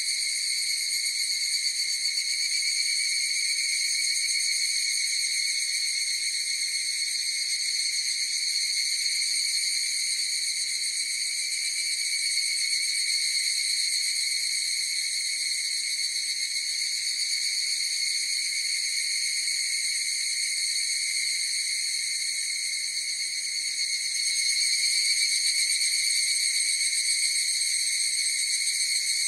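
Chorus of higurashi evening cicadas calling without a break, a steady high ringing drone that grows a little louder in the last few seconds.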